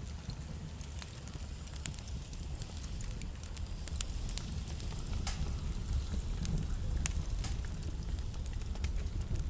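Wood fire burning in a fireplace: a steady low rumble of flames with irregular crackles and pops from the burning logs.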